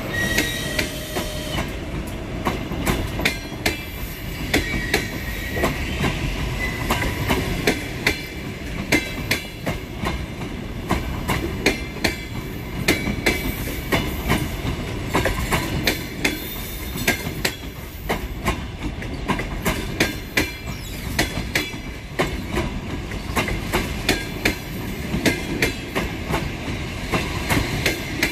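Train rolling through a station, its wheels clicking irregularly over rail joints and points the whole time, with a faint squeal of wheels on the rails at times.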